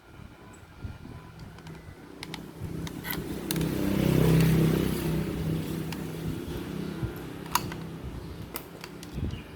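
A motor vehicle passing by, its engine noise swelling to a peak about four seconds in and then fading, with a few sharp clicks on top.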